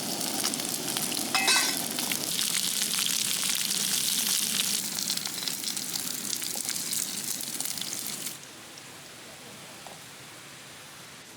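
Dumplings pan-frying in oil, a dense crackling sizzle that cuts off suddenly about eight seconds in, leaving a quieter steady hiss.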